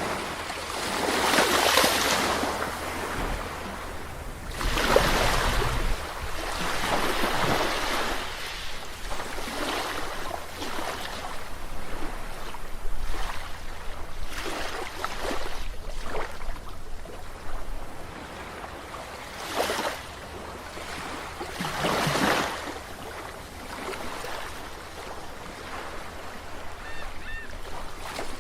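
Ocean waves breaking and washing up a shore, a surge about every three to four seconds, over a steady low rumble of surf.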